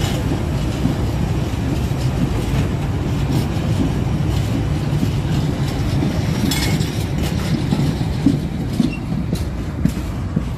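Freight train's open box wagons rolling past close by: a steady low rumble with wheels clicking over the rail joints, and a brief sharp metallic squeal about two-thirds of the way through.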